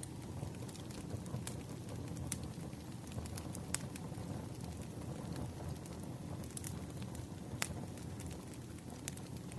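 Wood fire burning: a steady low rumble and hiss with sharp crackles and pops every second or so.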